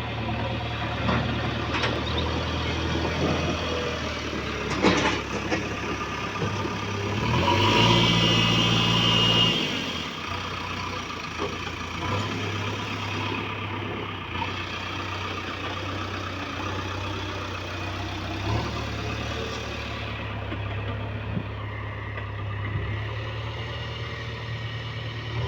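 Heavy diesel engine of a backhoe loader or tractor running steadily at idle. It revs up for about two seconds with a high whine, then settles back to idle. There is a sharp knock about five seconds in.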